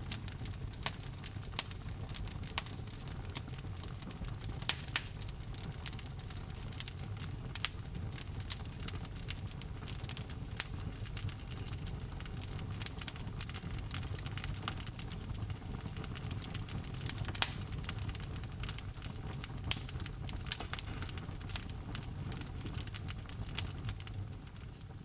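Wood logs burning in a fireplace, crackling with irregular sharp pops over a steady low rumble of flame. The sound starts fading out near the end.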